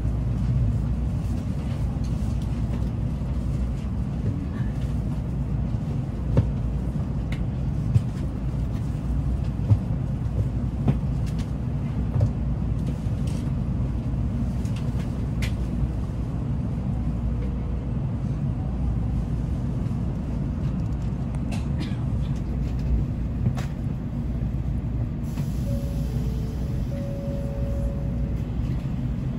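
Cabin noise inside a Shinkansen bullet train running at speed: a steady low rumble with occasional faint clicks and knocks.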